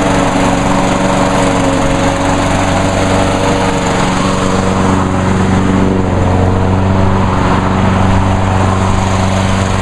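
Honda lawnmower's single-cylinder four-stroke engine running steadily, warming up after a cold start so the oil will drain more easily.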